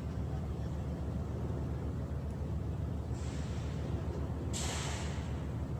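A low engine running steadily with a rapid throb. There are two short bursts of hiss, one about three seconds in and a louder one about four and a half seconds in.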